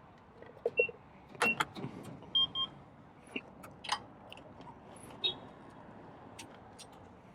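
A few short electronic beeps, one and then a quick pair, among scattered clicks and knocks.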